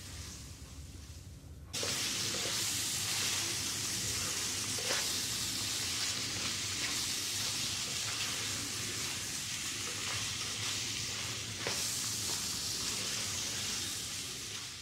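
Beef mince with chopped tomatoes sizzling in a hot non-stick frying pan as it is stirred with a spatula. The sizzle is quieter at first and jumps suddenly louder about two seconds in, then holds steady.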